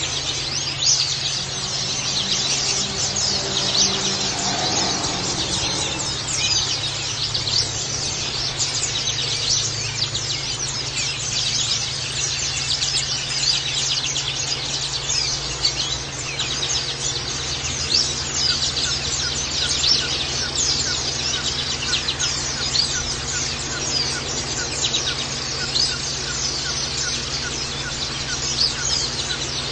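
Pleci (white-eye) birds chirping rapidly and without pause in high, thin notes, over a faint steady low hum.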